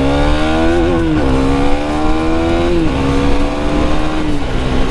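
KTM Duke 390's single-cylinder engine accelerating hard through the gears: its pitch climbs and drops at three upshifts, about a second and a half apart, then holds steady near the end.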